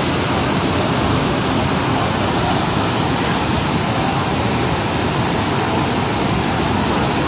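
Floodwater rushing in a steady, loud roar of water with no breaks.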